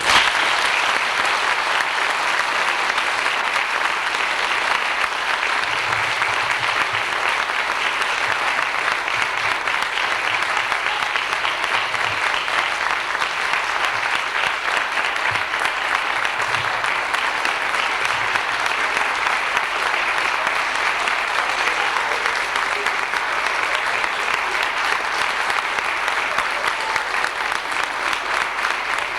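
Large audience applauding: dense, steady clapping that starts suddenly and keeps up without letting off.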